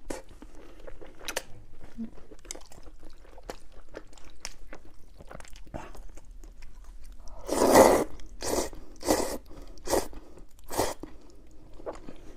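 Close-miked chewing, with small wet clicks at first, then a loud crunchy bite a little past halfway followed by four more crunches in quick succession.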